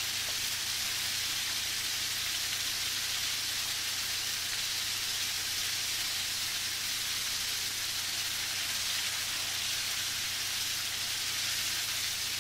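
Chicken nuggets deep-frying in oil on a medium flame, a steady, even sizzle.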